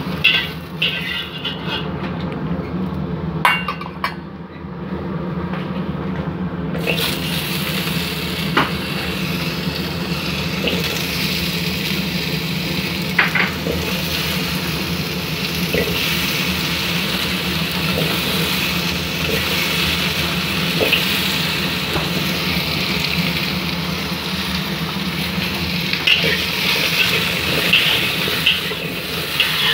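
Onion and cubed potatoes sizzling in hot oil in a wok. The sizzle is fuller and brighter from about seven seconds in, and a spatula scrapes and clinks against the pan as the potatoes are stirred. A steady low hum runs underneath.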